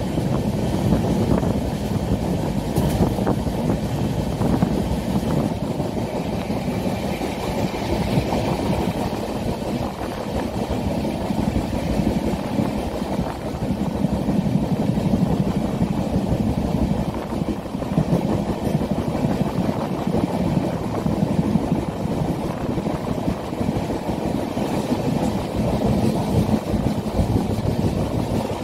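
Steady rumble of a passenger train's coach heard from on board while the train runs.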